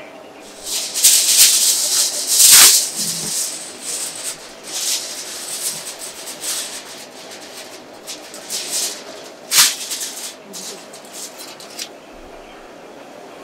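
Coarse salt poured and shaken over a whole fish for salt-baking: a series of uneven, rattling, hissing pours, the heaviest about one to three seconds in and a short sharp one near ten seconds.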